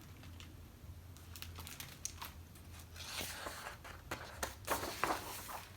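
Paper rustling and a few light handling clicks as a picture book's page is turned.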